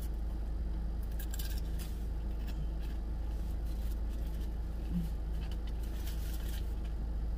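Chewing and crunching while eating crispy fried chicken, with a few short crisp crackles now and then. Underneath runs the steady hum of the idling car and its air conditioning.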